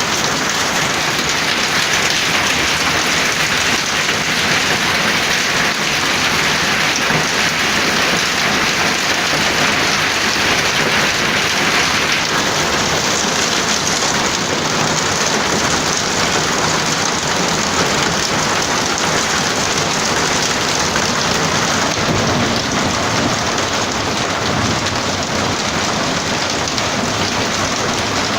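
Hailstorm with heavy rain: a dense, steady clatter of hailstones and rain pelting down.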